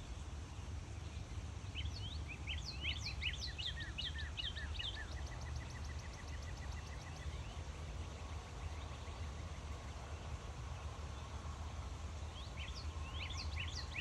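Birds singing: quick, high sweeping chirps and a fast run of repeated notes from about two seconds in, then another flurry of chirps near the end, over a steady low rumble.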